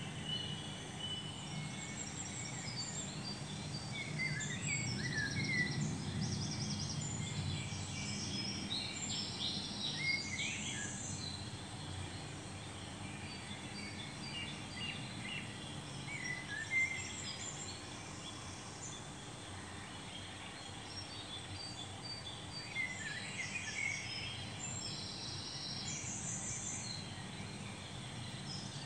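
Birds chirping and singing in quick, repeated phrases over a steady low rumble of background noise.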